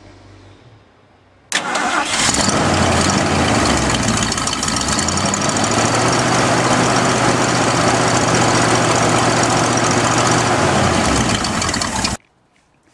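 Cold start of a 1971 Ford Torino GT's 302 V8 with a Holley carburettor: it fires about a second and a half in and settles into a steady idle without knocking. The sound cuts off abruptly near the end.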